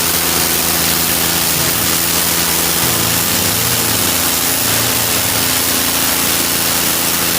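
Tractor diesel engine running steadily, over a loud, even hiss.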